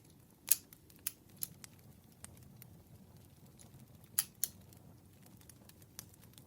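Campfire crackling: irregular snaps and pops of burning wood, the sharpest about half a second in and a close pair around the four-second mark, over a soft, steady low background.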